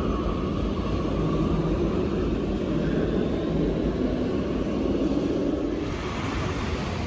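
Steady low rumble of a vehicle going by, turning thinner and hissier near the end.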